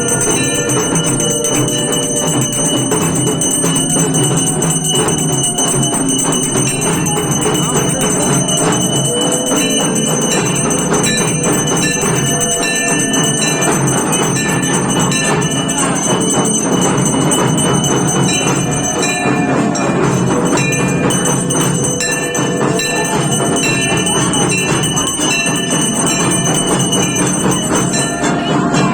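Temple bells ringing continuously during a Kali puja aarti, with dense, rapid metallic striking and steady high ringing tones.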